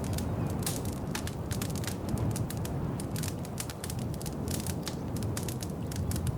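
Wood fire in a fireplace crackling: a steady low rumble of flames with many sharp, irregular pops and snaps.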